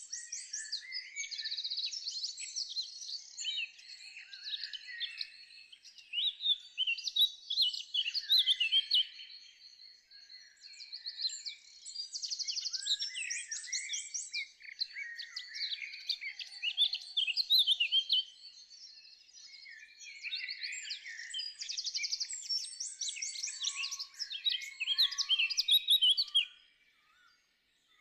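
Several songbirds singing at once, a busy mix of chirps, fast trills and quick runs of repeated high notes, with a thin steady high whistle underneath for the first part. The song breaks off to near silence for about a second near the end.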